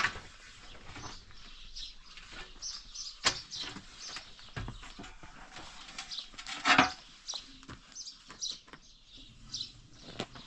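Small birds chirping over and over in short, high calls, with a sharp knock about three seconds in and a louder, noisier clatter near seven seconds.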